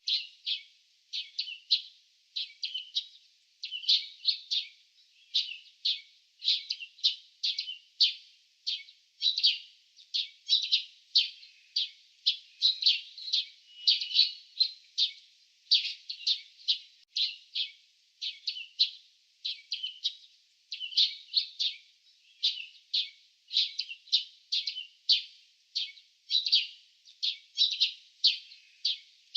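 Small birds chirping: a rapid, unbroken series of short, high chirps, several a second.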